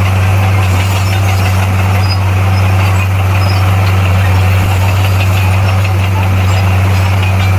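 Heavy diesel engine of earthmoving equipment running steadily, with a constant low hum.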